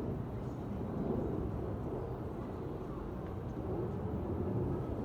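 Steady low rumble of a train running through the station.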